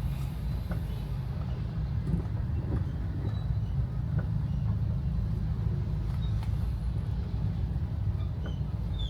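Steady low rumble of a car on the move, heard from inside the cabin, with a few faint scattered ticks.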